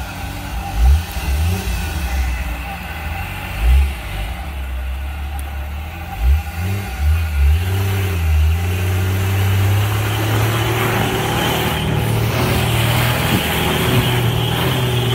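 Jeep Cherokee XJ engine revving in short surges as it strains through deep mud on a blown rear axle, then held at steady high revs from about halfway through.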